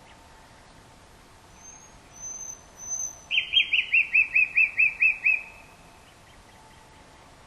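Common nightingale singing one phrase: a few high, thin whistled notes, then a loud, fast run of about ten repeated notes, about five a second, that ends abruptly.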